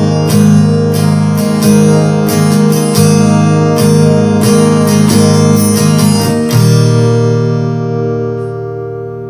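Amplified acoustic guitar (violão) strummed in a steady basic rhythm, played dry with the chorus pedal switched off. About two-thirds of the way through the strumming stops on a final chord that rings and slowly fades.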